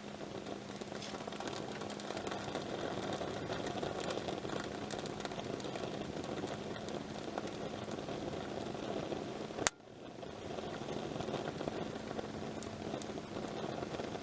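Wood campfire burning: a steady rushing of flames with many small crackles and pops, and one sharp loud snap about ten seconds in, followed by a brief lull. A faint steady hum runs underneath.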